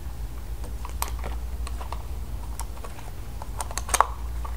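Light, irregular clicks and taps of hard plastic toy parts being handled, as the figure is put into the toy helicopter, with the loudest clicks near the end. A steady low hum runs underneath.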